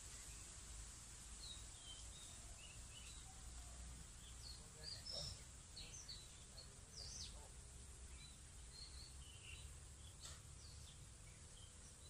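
Faint birdsong: short, scattered chirps and whistles from small birds, over a steady high hiss and a low rumble.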